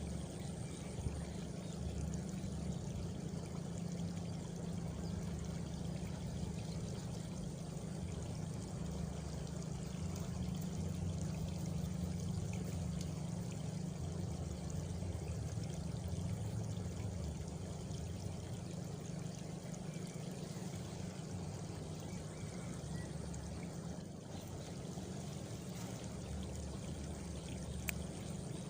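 Steady flowing water, like a stream or a running water outlet, with a faint, high, steady trill of crickets.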